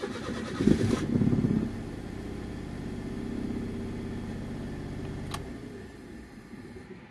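Maruti A-Star engine being cranked by the starter for about six seconds, with an even pulsing that fades out near the end. Long cranking like this is the no-start/hard-start symptom that the mechanic traces to a faulty camshaft position sensor circuit (code P0340).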